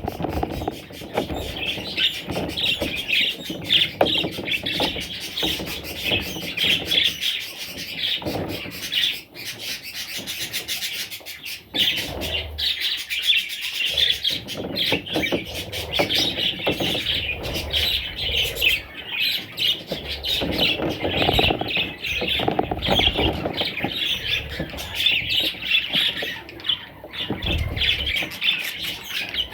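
Budgerigars chirping and chattering continuously, many rapid high calls overlapping, with occasional lower squawks.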